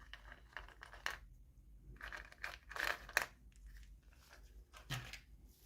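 Packaging being crinkled and torn open by hand in irregular crackling bursts, with a soft thump near the end.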